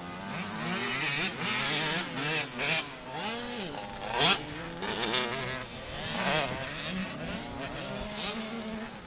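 Motocross dirt bike engine revving up and down as it is ridden, its pitch rising and falling again and again with the throttle and gear changes. A brief loud burst cuts across it about four seconds in.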